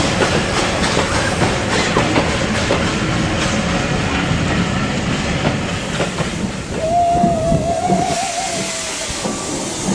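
A train of BR Mark 1 coaches running past, wheels clattering over the rail joints. About seven seconds in, a steam locomotive whistle sounds one steady note for about two seconds, and the train noise dies away after it.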